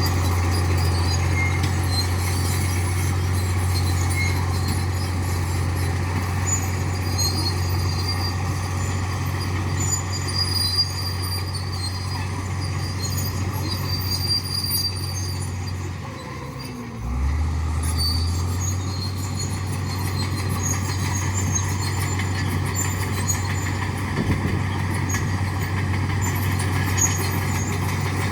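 Heavy diesel engine of a bulldozer running steadily under load. About two-thirds of the way through it briefly drops in revs and pitch, then picks back up to a steady run.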